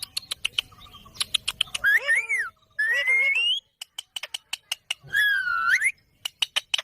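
Indian ringneck parrot calling: three drawn-out calls that bend up and down in pitch, about two, three and five seconds in, between runs of quick, sharp clicks.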